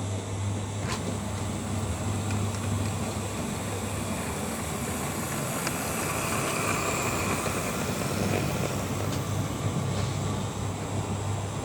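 OO gauge model train running on the layout: a steady motor hum and running noise, with a few sharp clicks along the way.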